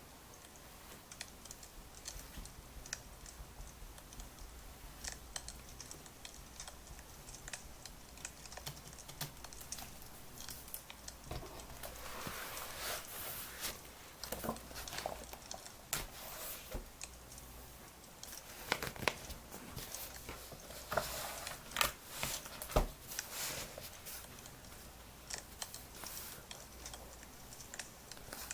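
Burning firewood crackling: scattered sharp pops and snaps over a low steady hum, growing denser and louder with some rustling between about twelve and twenty-three seconds in.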